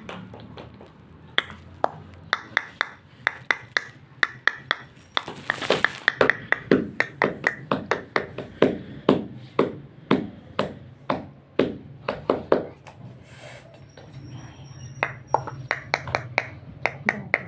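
A run of sharp taps in an uneven rhythm, about two to four a second. They pause briefly about three quarters of the way through, where a few faint high whistle-like notes sound.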